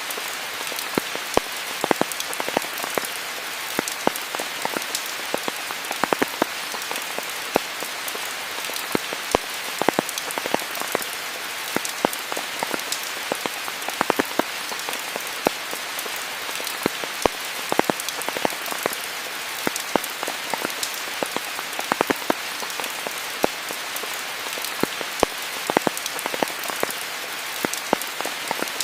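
Steady rain falling: a dense, even hiss broken throughout by frequent sharp taps of single drops striking close by.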